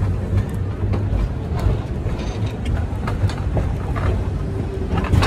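Passenger train running along the track, a steady low rumble with irregular clacks and knocks from the wheels and cars.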